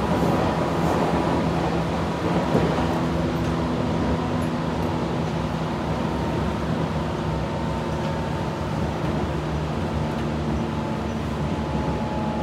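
Running noise inside a Tobu 8000 series electric commuter car under way: a steady drone with several held tones over the rumble of the wheels on the rail, a little rougher in the first couple of seconds.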